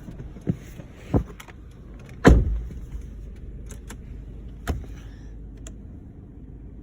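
Car door clicks and knocks, with one heavier thump about two seconds in, over the low steady idle of the 2011 Chevrolet Aveo's Ecotec four-cylinder engine.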